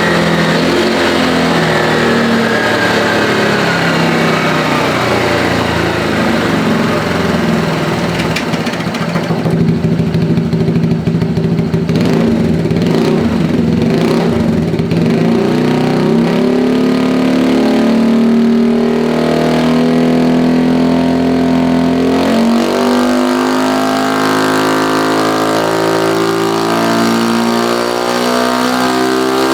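Automatic (matic) scooter engine running on a dyno through a 3Tech EvoX ADB valved exhaust with the valve closed, revved up and down. The revs fall at first, run rough and uneven in the middle, hold steady for several seconds, then drop and climb again near the end.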